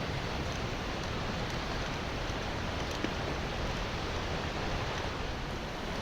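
Steady rushing of a mountain creek's water, an even hiss with no changes.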